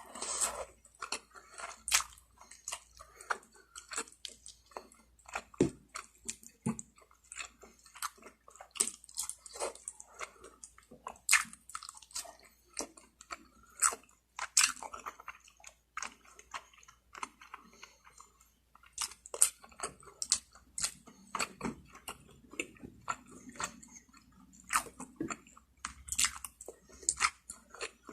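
A person chewing and biting lechon manok, Filipino spit-roasted chicken, with close-up mouth sounds: irregular sharp wet clicks, several a second.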